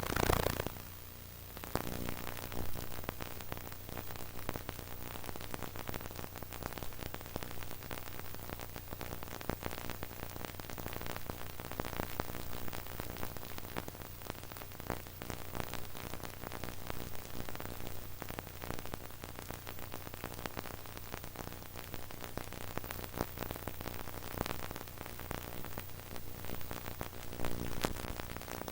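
Faint steady hiss with a low hum and light crackling throughout, like background recording noise with no distinct source sounding.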